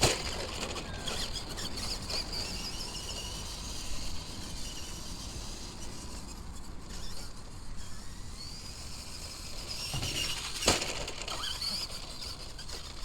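Electric motor and gears of a Tamiya radio-controlled monster truck whining, rising and falling in pitch as it is driven, with one sharp knock about ten and a half seconds in.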